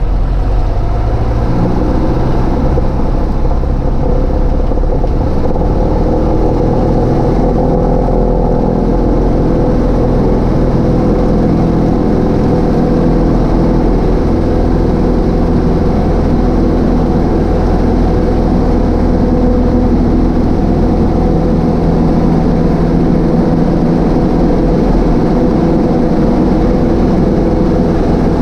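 Cessna 152's four-cylinder Lycoming engine and propeller running steadily in flight, a constant droning hum.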